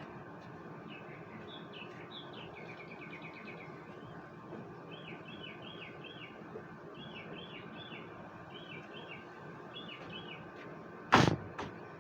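A bird chirping in quick repeated short phrases over a steady background hum, then a sharp knock and a fainter second one near the end.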